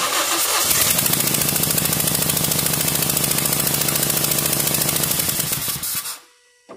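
Toyota engine cranked and started with its number two spark plug blown out of the head. It runs for about six seconds with a loud, fast, even pulsing as compression escapes through the stripped plug hole, then cuts off suddenly, followed by a short knock near the end.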